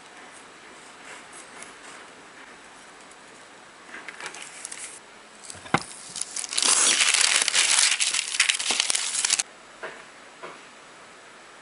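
Crinkling, crackling handling noise, like packaging being crumpled or torn. It is loudest for about three seconds in the second half and ends abruptly, with a sharp click just before it.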